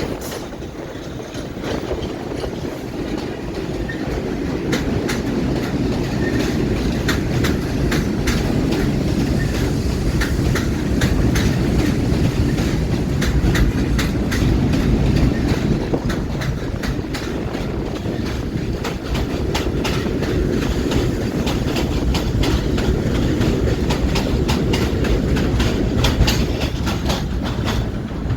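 Subway train passing through the station at speed without stopping: a steady low rumble with wheels clacking rapidly over rail joints, the clacking growing denser about four seconds in.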